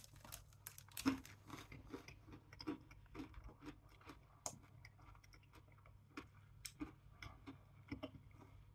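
A person chewing a mouthful of Daim bar, the hard caramel centre under the milk chocolate crunching in faint, irregular crisp clicks.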